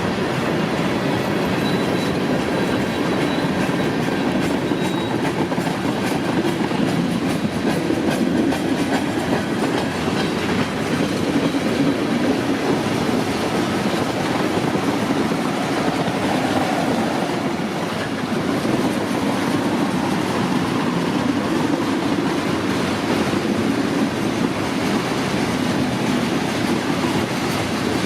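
Freight cars of a CSX manifest train rolling past, a steady rumble of steel wheels running over the rails.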